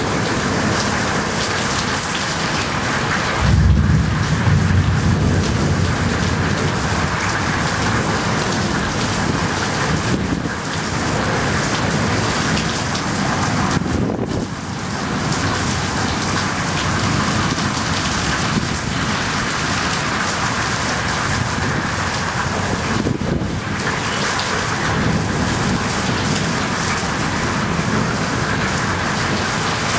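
Heavy rain pouring steadily in a thunderstorm, with a deep low rumble that rises about three and a half seconds in and fades over a few seconds.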